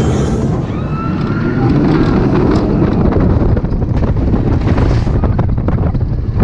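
Heavy wind buffeting the microphone over the rumble and rapid rattling of a motorbike roller coaster train running at speed along its track.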